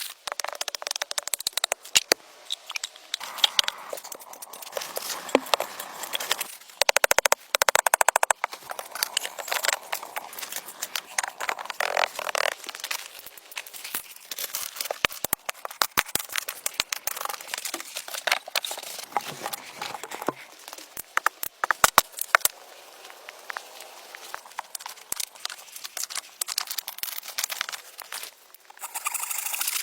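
Dry forest debris, branches and leaves, crackling, snapping and rustling as it is handled. There are irregular sharp cracks throughout and a quick run of rapid clicks about seven seconds in.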